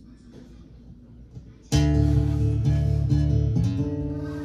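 A guitar chord strummed about a second and a half in, then left ringing and slowly fading. Before it there is only low room sound with a few faint clicks.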